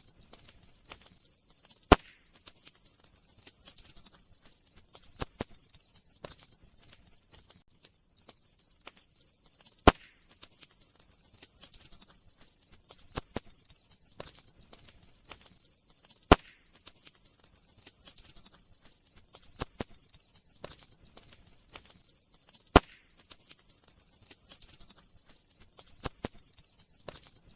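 Campfire crackling: scattered small crackles and a loud pop about every six and a half seconds, over a faint steady hiss.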